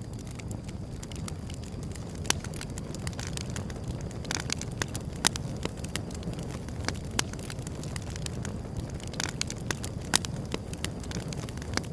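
Wood fire burning: a steady low rumble of flame with irregular crackles and pops from the wood, a few of them sharper snaps.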